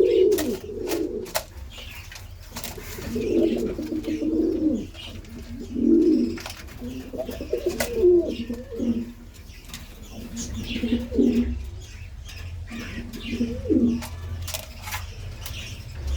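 Pigeons cooing over and over, a low call coming every second or two, with faint high chirps from smaller cage birds among them.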